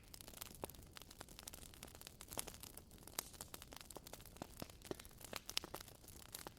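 Wood fire crackling: frequent irregular sharp pops and snaps, several a second, over a soft hiss.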